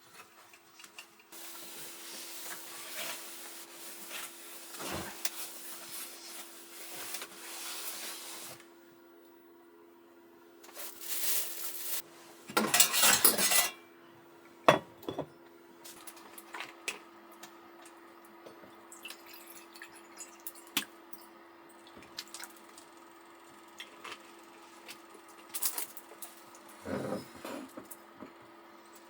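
Water running for several seconds, then two short, louder pours, followed by scattered clinks and knocks of pots and utensils; a faint steady hum runs underneath.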